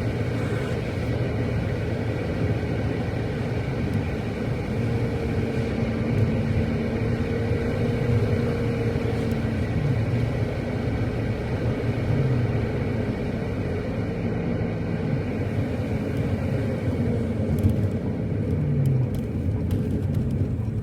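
Car driving: steady engine and road noise, the engine note shifting up and down every few seconds.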